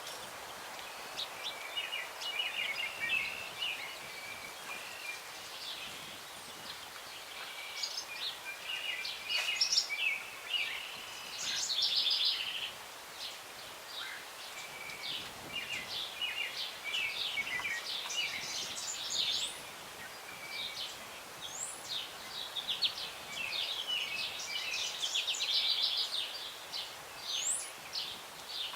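Several songbirds singing and chirping at once, a steady chorus of short chirps, trills and a few quick upward whistles, over a soft steady hiss of breeze in the trees.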